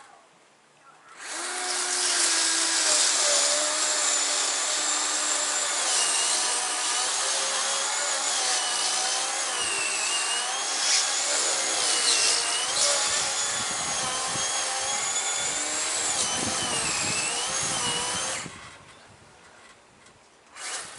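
Chainsaw cutting into a black walnut limb: it comes up to full speed about a second in, runs steadily for about seventeen seconds with its pitch dipping and recovering as the chain bites, then stops abruptly.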